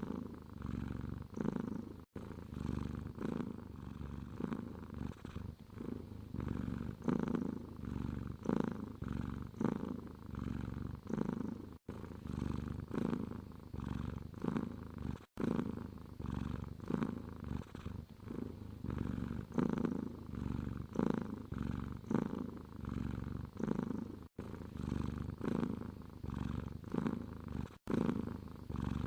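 Domestic cat purring steadily, in rhythmic swells of about one a second as it breathes in and out. The sound cuts out for an instant five times.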